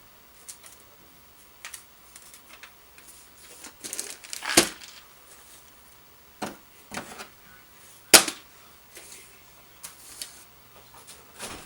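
Handling sounds of gift wrapping: scattered light clicks and short rustles, with two louder sharp snaps, one about four and a half seconds in and a sharper one about eight seconds in.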